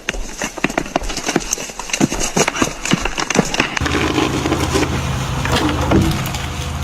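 Wood cracking and snapping in a rapid run of sharp cracks as a felled tree tips over on its hinge, followed from about four seconds in by a steady low rumble.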